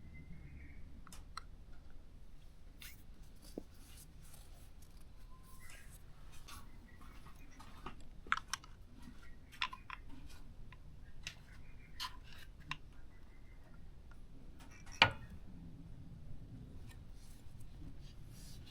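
Scattered light metallic clicks and taps of tools and parts being handled during a motorcycle oil change, with one sharp knock about fifteen seconds in.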